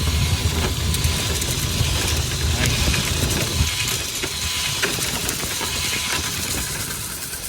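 Dryer vent cleaning equipment running: a steady low rumble under an even hiss, with scattered clicks and knocks, easing slightly near the end.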